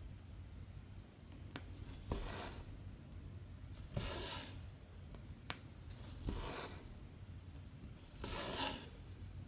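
Cotton embroidery thread drawn through 14-count cross-stitch fabric, four short rasping pulls about two seconds apart. Two sharp ticks fall between the pulls.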